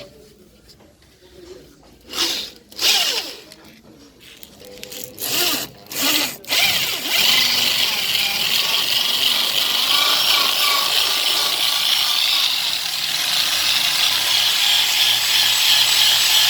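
A power tool, a drill or rotary grinder, cutting metal while enlarging a carburettor bore. It gives three short bursts, then runs steadily from about six seconds in.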